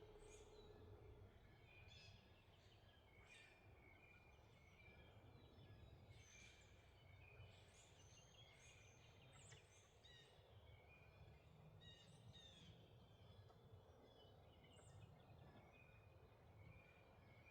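Faint outdoor birdsong: many small birds chirping in short, repeated calls over a low background rumble.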